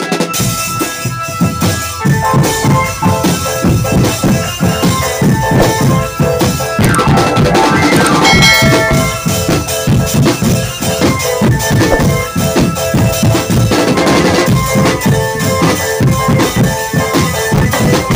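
Marching drum band (drumband) playing: fast, dense snare and bass drum beats with a sustained melody carried over them.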